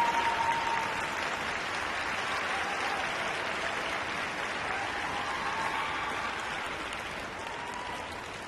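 Arena crowd applauding, the applause slowly dying down.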